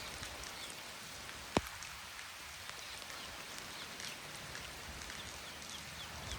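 Rain falling steadily, with one sharp tap about a second and a half in.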